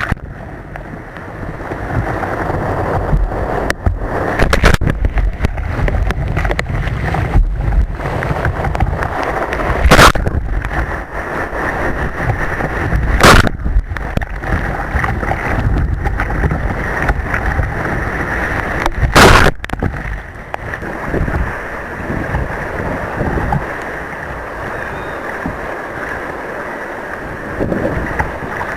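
Surf and rushing water around a kayak, with wind buffeting the microphone. Three loud, sharp hits break through the steady rush.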